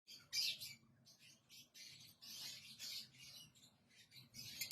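Lovebirds chirping in a series of high, scratchy bursts that start abruptly, the loudest about half a second in.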